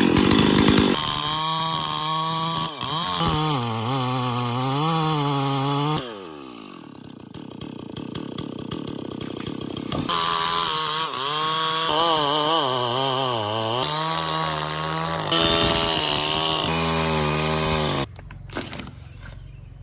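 Two-stroke Stihl MS440 chainsaw running at high revs while cutting wood, its pitch wavering as it loads in the cut. About six seconds in it drops off throttle with a falling pitch and runs quieter, then picks up again about four seconds later. It drops abruptly again near the end.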